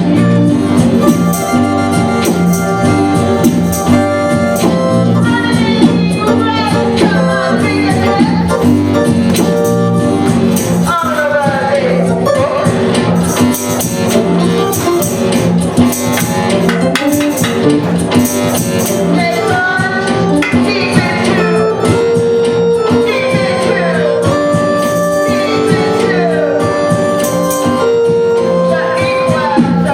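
Live band playing a song, with singing.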